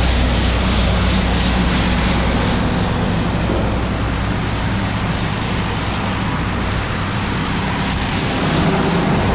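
Combine harvester running steadily through corn, a constant loud engine and machine drone with a low hum.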